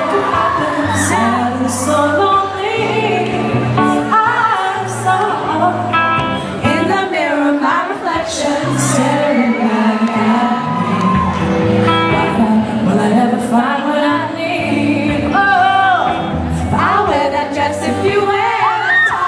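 Live pop band music with singing voices, a steady bass line and cymbals.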